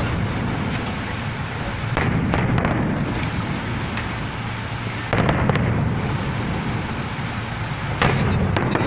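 Fireworks going off: three clusters of sharp bangs and cracks, about three seconds apart, over a steady low crackling din.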